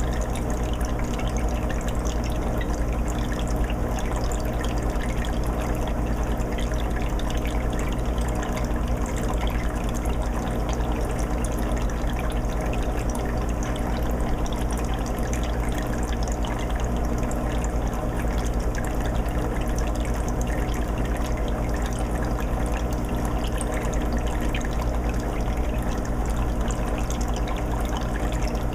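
20-gallon aquarium's water filter running: a steady trickling and bubbling of water over a low, even hum.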